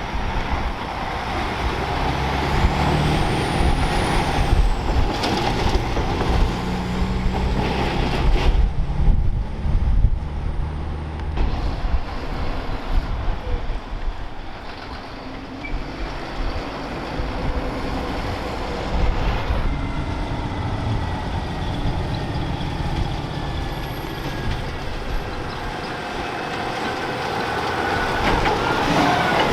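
Heavy diesel trucks driving by, their engines running loudest in the first eight seconds or so with the engine note shifting, then a quieter rumble of traffic that builds again near the end.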